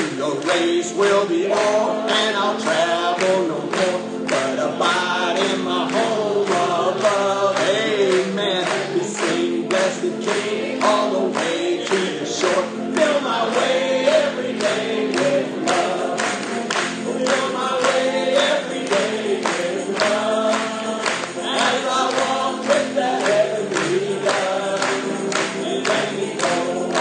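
A group of voices singing a gospel song together, over a sharp percussive beat about twice a second.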